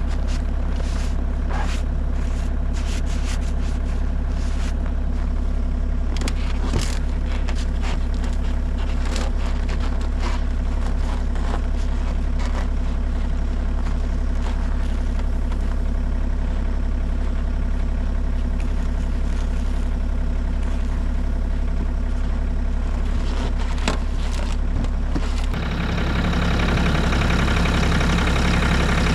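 Bobcat E50 excavator's diesel engine idling steadily while warming up after a hard cold start, with scattered short clicks and crunches over it. A few seconds before the end the engine sound gets louder and fuller.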